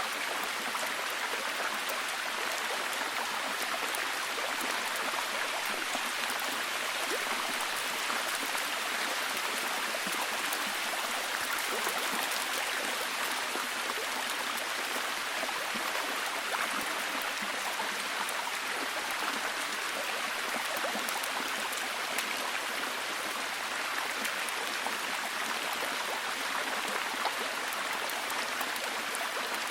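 Steady, heavy rain falling, an even hiss dotted with many fine drop ticks.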